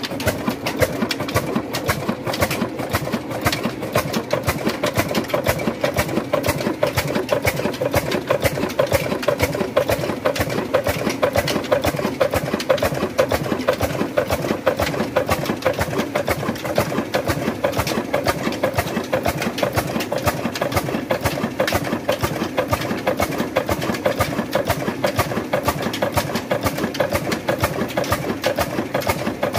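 A machine running steadily with a fast, even clatter and a steady hum.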